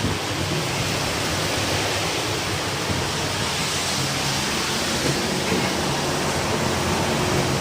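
Heavy rain driven by strong wind: a steady, even rush of noise.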